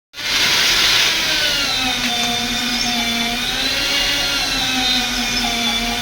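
A power tool's motor running steadily, its pitch wavering slightly up and down. It starts abruptly at the beginning.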